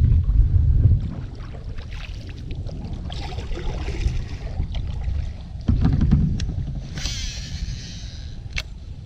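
Wind gusting across the microphone on a kayak on open water, with a low rumble that swells in the first second and again about six seconds in. Light knocks throughout, a short hiss about seven seconds in and a sharp click near the end.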